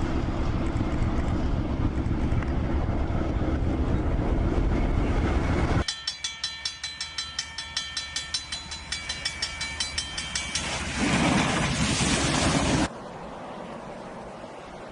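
A train running through snow with a loud, heavy rumble. About six seconds in it changes abruptly to a rapid, even clicking of wheels on rail, about four clicks a second, with a few steady high tones over it. Then comes a brief loud rush of noise that cuts off sharply, leaving a faint hiss.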